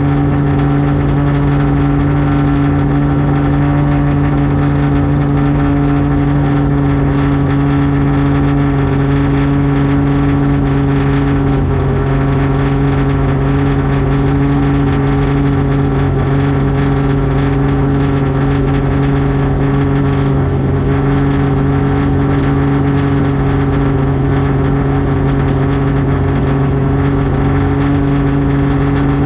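Race car's engine idling steadily at a constant pitch, loud inside the stripped, roll-caged cabin.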